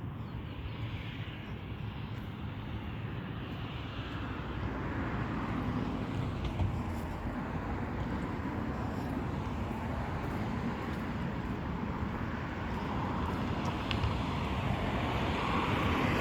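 Road traffic from a busy street: a steady wash of passing-vehicle noise that swells slowly and grows louder through the second half.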